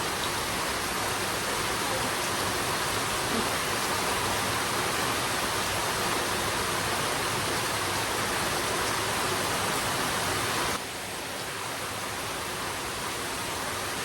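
Steady rush of water, an even hiss with no strokes or pitch, easing slightly about eleven seconds in.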